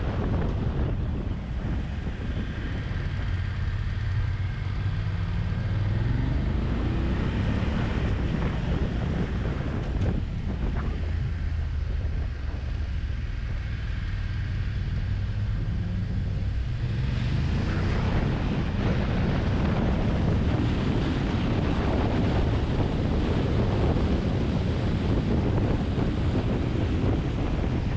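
Motorcycle engine running under way, its pitch stepping up and down with the throttle and gears, with wind rushing over the microphone that grows louder about two-thirds of the way in.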